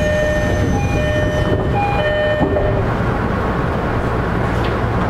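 Tokyo Metro 10000 series electric train running at speed, a steady rail rumble heard from inside the car. A few steady tones sound over it in the first half and stop about two and a half seconds in.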